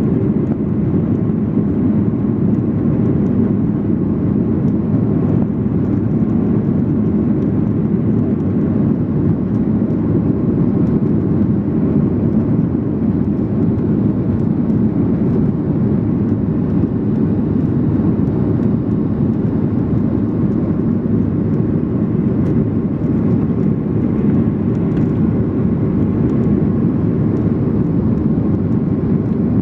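Steady cabin noise of a Boeing 737-800: its CFM56 turbofan engines running at high thrust with airflow rush.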